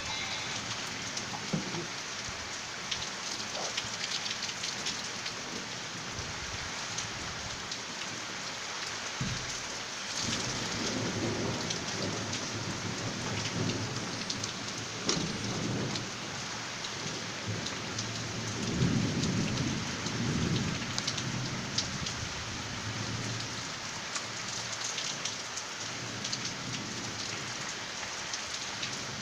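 Steady rain falling, with scattered sharp drops close by and a few low rumbles in the middle.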